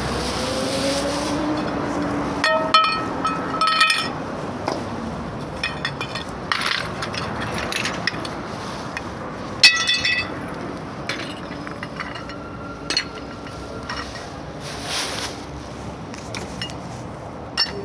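Sharp metallic clinks that ring briefly: a cluster of several strikes about three seconds in and a single loudest one near ten seconds, with smaller knocks between, over steady street traffic noise. A vehicle's engine rises in pitch at the start.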